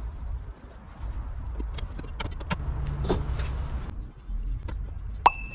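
Hand tools and metal parts clicking and knocking during work on a car. About two and a half seconds in, a low hum runs for just over a second, and near the end a single sharp metallic clink rings on.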